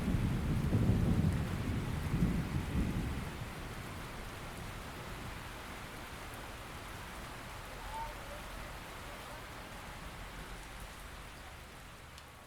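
Steady rain falling, with a rumble of thunder in the first few seconds that rolls away. The rain goes on alone and slowly grows quieter near the end.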